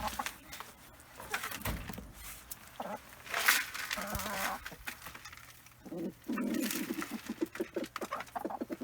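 Backyard chickens clucking around a chicken tractor, with a quick run of clucks in the last few seconds. A brief rustling noise comes about three and a half seconds in.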